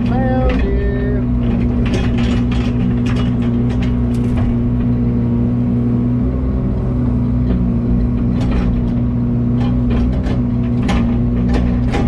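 Heavy diesel machinery engine running at a steady speed, with scattered metallic clanks and rattles and a brief squeak near the start.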